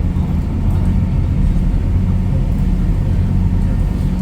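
Boat engine running with a steady, low drone, heard on board.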